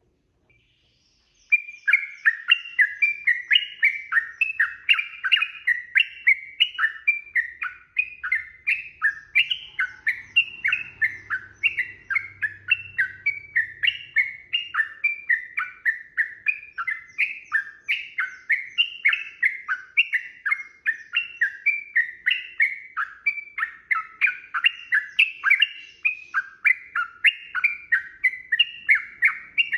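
Yellow-vented bulbul (trucukan) singing a long, unbroken run of quick, bubbling chattering notes. The song starts about a second and a half in.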